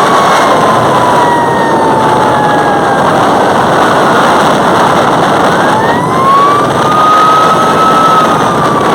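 A siren wails slowly: one long tone falls over the first few seconds, then rises again about halfway through and holds. Underneath is a loud, steady rush of noise.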